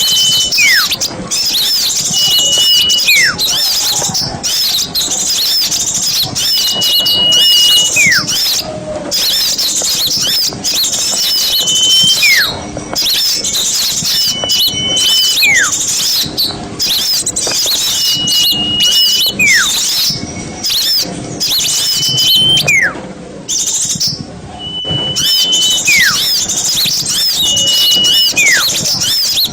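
Small songbirds singing, a recorded masteran song-tutor track: a call of a steady high whistle followed by a quick falling whistle repeats about every two to three seconds over dense, high chattering song.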